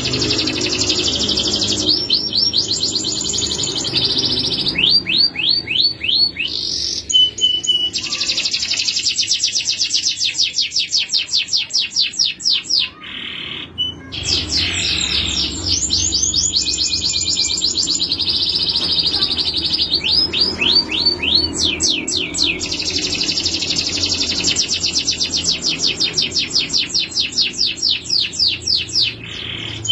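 Male canary singing a long song of fast trills and rolls, mixed with runs of repeated sweeping notes, with a brief break about halfway through.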